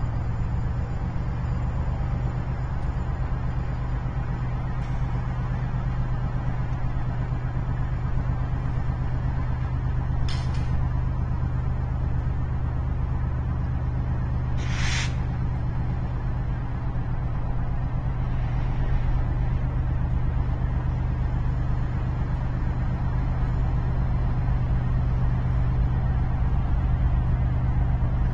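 BNSF freight train passing: a steady low rumble with a constant low hum, broken twice by a short hiss, about 10 and 15 seconds in.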